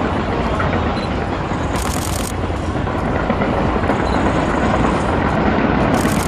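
A fireworks display going off as a dense, continuous rumble of overlapping shell bursts.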